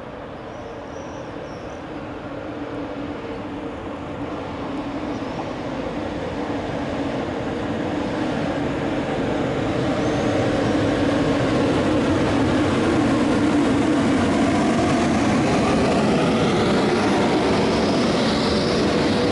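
Locomotive-hauled train of a 3E-100 electric and an S200 diesel locomotive towing EN57 units, approaching and passing close along a station platform. Its rumble and wheel-on-rail running noise grow louder until about halfway through and then hold steady. A higher hiss rises near the end as the towed units go by.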